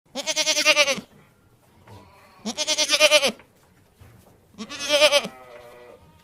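Goat bleating: three quavering calls, each under a second long, about two seconds apart.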